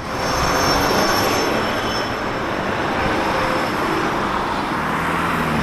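A train running loudly and steadily along a station platform, with a thin high squeal in the first second or so.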